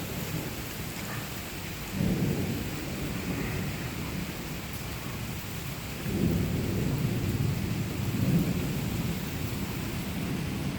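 Steady rain falling, with low rumbles swelling up about two seconds in and again from about six seconds in.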